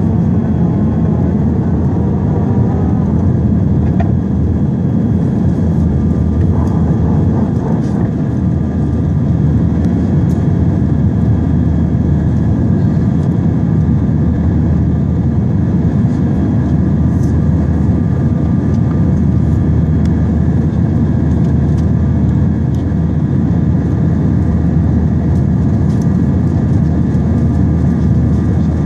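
Airbus A320 jet engines running, a loud, steady low rumble with a faint steady whine above it.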